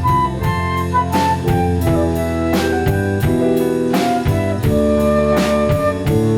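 Instrumental jazz-pop music played with a drum kit, a bass line and a sustained melody line over a steady beat.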